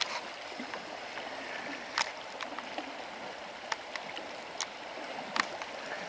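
Steady rushing of a river's flowing water, with a few short sharp clicks over it.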